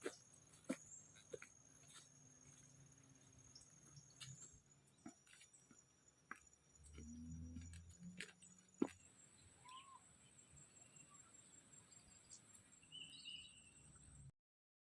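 Faint outdoor ambience: insects trilling steadily and high, scattered light clicks, and a bird giving a short call about ten seconds in and another near the end. The sound cuts off suddenly just before the end.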